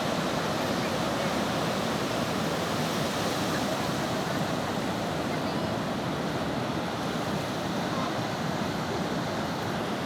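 Ocean surf breaking on a beach, a steady wash of waves with no distinct events.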